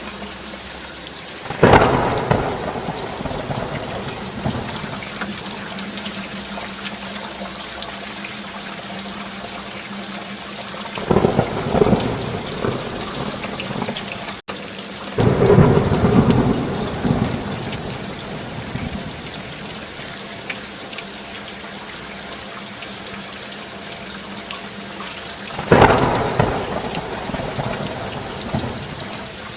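Steady heavy rain, with rolls of thunder four times: about two seconds in, twice around the middle, and near the end. Each roll starts suddenly and fades over a second or two.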